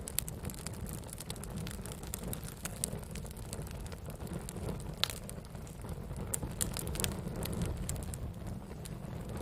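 Wood campfire burning: a steady low rumble with frequent sharp crackles and pops, one louder pop about five seconds in.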